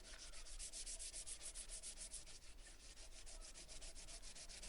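240-grit sandpaper rubbed by hand along the edges of an oak handle, in quick, even back-and-forth strokes, several a second.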